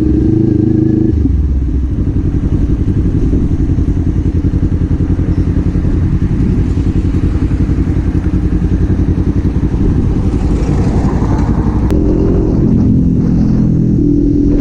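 Kawasaki Z400 parallel-twin engine heard from the rider's seat. The steady engine note drops about a second in and runs for several seconds at low revs with a choppy firing pulse. Near the end it picks up again to a steadier, higher tone.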